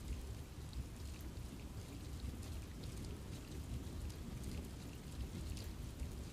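Steady rain falling on a forest, a low rumbling wash with many separate drops ticking on leaves.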